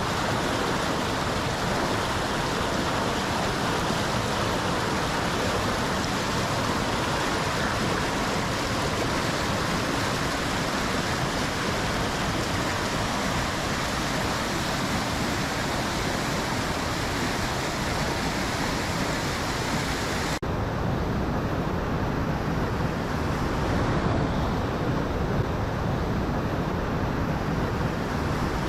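Waterfall rushing steadily, a full, hissing roar of falling water. About twenty seconds in it cuts abruptly to a duller, lower steady rush with the hiss gone.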